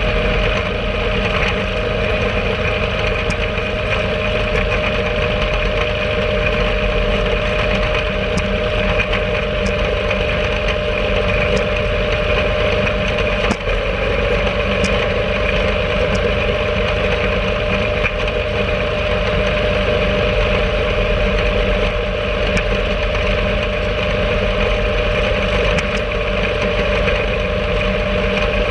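Home-made rail cart's small engine running steadily at a constant pace as the cart travels along the track, with light clicks every second or two.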